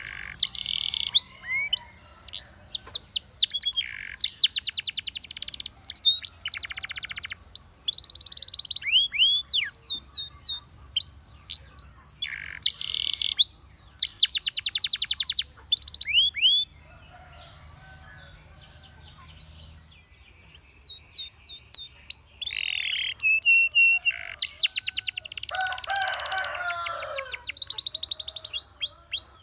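Canary singing: fast trills of rapidly repeated notes alternating with quick falling whistles. The song breaks off for a few seconds past the middle, then resumes.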